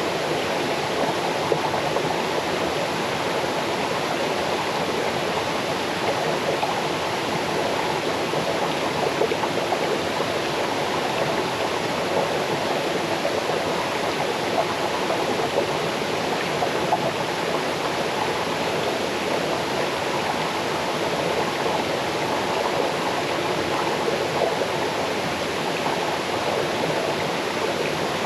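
Small forest waterfall cascading into a stream: steady splashing and babbling of falling water.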